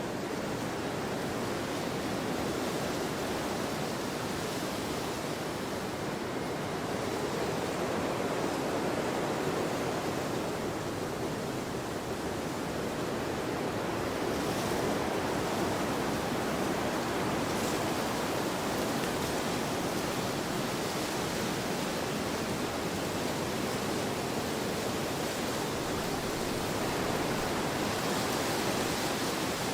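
Wind blowing across an open field: a steady rushing noise that swells and eases gently every few seconds.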